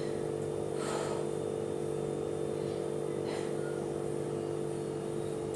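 Steady mechanical hum made of several even tones at a constant level, with two brief faint hissing sounds about one and three and a half seconds in.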